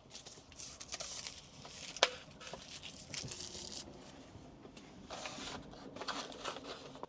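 Rustling and crinkling of food packaging being handled, with one sharp click about two seconds in.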